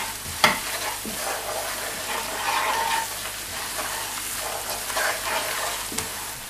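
Onion-and-spice masala sizzling in hot oil in a wok while a wooden spatula stirs and scrapes it around the pan, with one sharp knock about half a second in.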